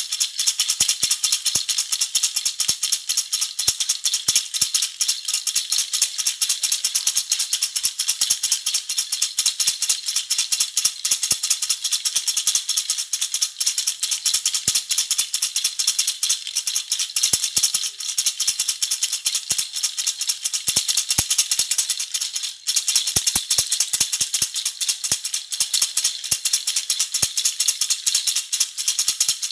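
Baby rattle (jhunjhuna) shaken continuously, a dense, fast, high-pitched jingling clatter, with a brief pause about two-thirds of the way through.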